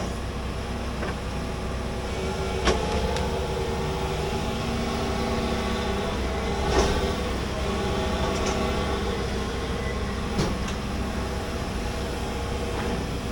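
Large hydraulic excavator running under load while digging, its engine note shifting as it works, with a few sharp metallic clanks.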